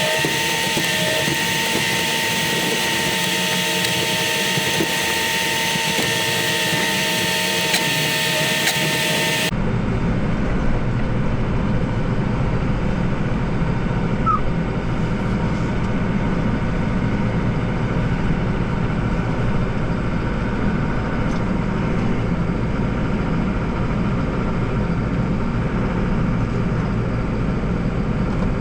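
Tractor diesel engine running steadily while working a snowblower, with a steady whine over the engine. About nine seconds in the sound changes abruptly to a deeper, steady rumble, which also runs on without a break.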